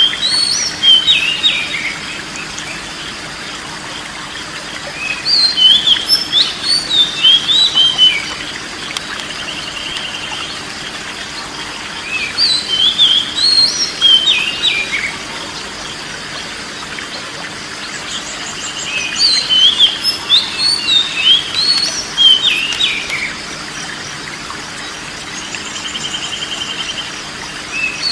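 Oriental magpie-robin (kacer) singing: bursts of quick, varied whistled phrases every few seconds, with a short buzzy rattle between some of them.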